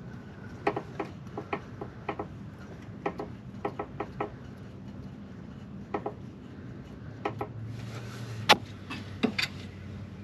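Hand tools working on engine bolts: short sharp metallic clicks in small clusters of two or three at uneven gaps, with a light rubbing in between.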